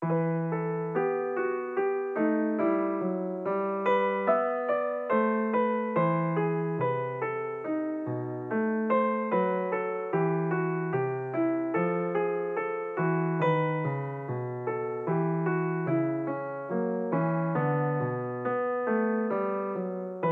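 Background music on a piano or electric piano: a gentle melody of struck notes that fade, played at an even pace of about two notes a second.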